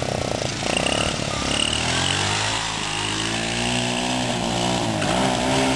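Mini bike's small engine revving high, then dropping off to a lower, steadier run, with the pitch rising slightly again near the end.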